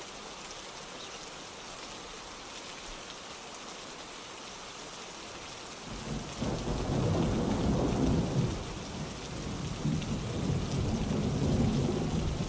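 Steady rainfall with a long roll of thunder that starts about halfway through, rumbling low and loud.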